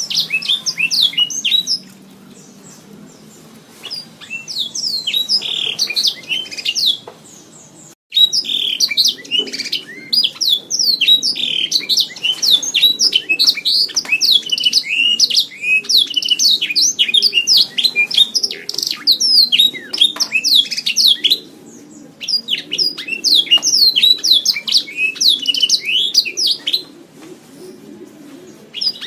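Domestic canary singing long runs of rapid, high chirping notes, in phrases broken by short pauses.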